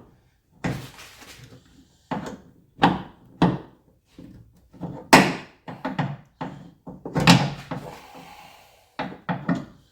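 A series of short knocks and clunks from handling a car's hood and its hardware while a gas hood strut is snapped onto its mount, the loudest about halfway through and again a couple of seconds later.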